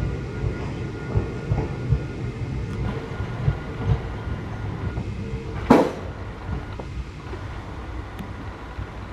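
Hakone Tozan Railway Moha 1 type two-car electric train moving off along a curve, its wheels knocking irregularly over the rails with a faint steady whine. One sharp clank about two-thirds of the way through is the loudest sound, and the train fades as it pulls away.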